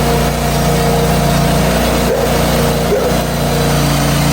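The engine of a Hud-Son portable band sawmill running steadily while the mill saws a maple log.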